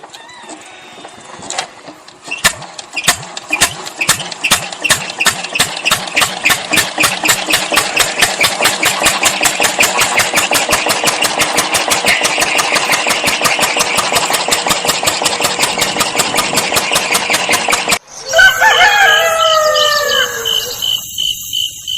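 Small homemade gas-bottle engine running, its evenly spaced sharp beats quickening over the first few seconds as it picks up speed, then cutting off suddenly. A rooster crows briefly near the end.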